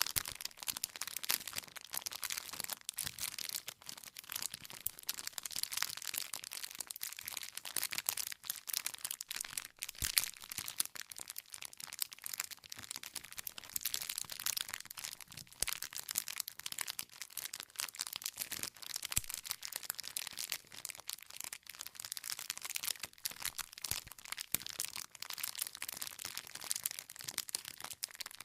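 Wood campfire burning, with constant dense crackling of the burning logs and a few louder pops scattered through.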